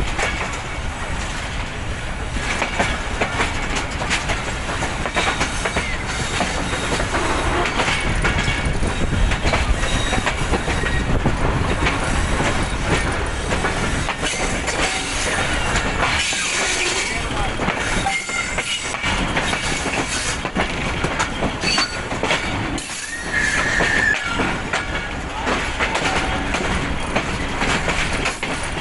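A passenger train's coaches rolling along the track, their wheels clattering over rail joints, with a brief high wheel squeal a little before three-quarters of the way through.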